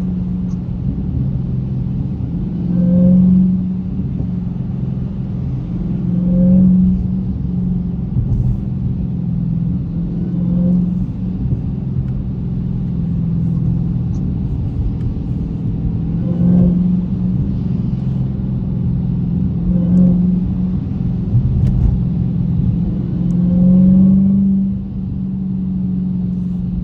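Supercharged 6.2-litre HEMI V8 of a Dodge Hellcat running at a steady cruise, heard from inside the cabin, swelling in level a few times.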